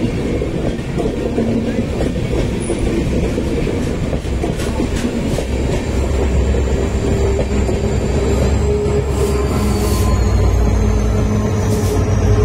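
A passenger train's coaches rolling past close by, wheels clattering over the rail joints with a faint high wheel squeal. In the second half the low, steady drone of diesel locomotives grows louder as they draw level.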